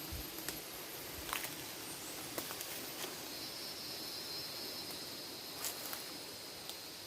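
Rainforest ambience: a steady high insect buzz sets in about three seconds in, over scattered crackles and snaps in the undergrowth.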